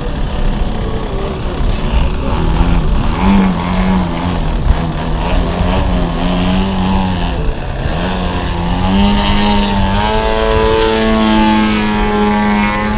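Radio-controlled model aeroplane in flight: its motor and propeller give one droning note that wavers in pitch with the throttle, dips briefly about two-thirds of the way through, then rises and holds steady near the end.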